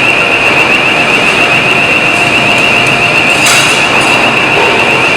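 Warning alarm on a truck-chassis tumbling machine sounding continuously as one high, warbling tone while the machine turns the chassis over, over steady factory noise, with a clank about three and a half seconds in.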